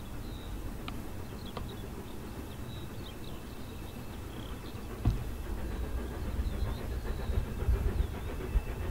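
Ex-Somerset & Dorset Joint Railway 7F 2-8-0 steam locomotive 53809 drawing near. A low rumble grows louder and more uneven from about five seconds in, starting with a sharp knock. Small birds chirp throughout.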